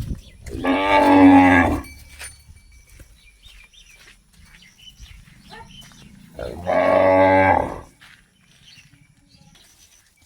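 A cow mooing twice, each call about a second long, the second coming about six seconds after the first.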